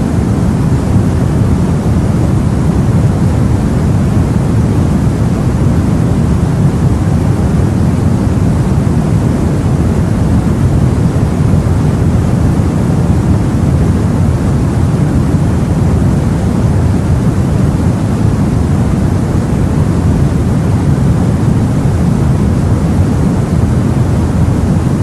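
Steady, low rumbling noise of the sea as heard aboard a boat, even throughout with no separate waves or other events.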